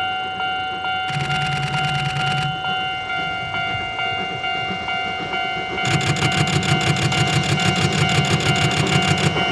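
C58 steam locomotive working a train, its exhaust beating in rapid, even chuffs: two short bursts in the first few seconds, then a louder, continuous run of beats from about six seconds in as it draws near.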